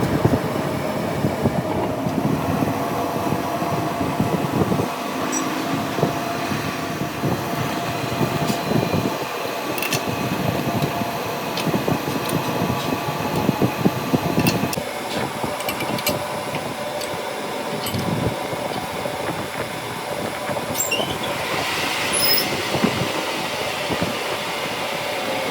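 Metalworking machine running steadily, with held metallic whining tones and a few sharp clicks.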